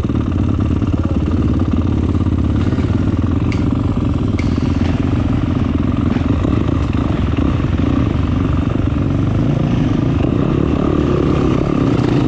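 Motocross bike engine running loudly and steadily at a near-constant speed.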